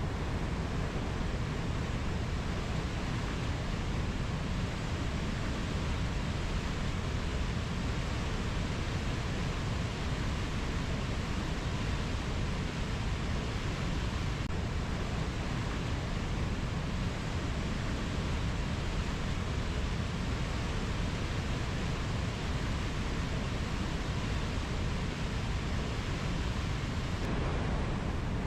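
Steady, even rushing noise, fullest at the low end, with no bird or insect calls and no separate events.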